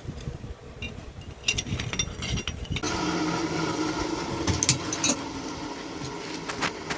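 Metal tools clinking and being handled in a blacksmith's workshop, with a steady machine hum starting about three seconds in.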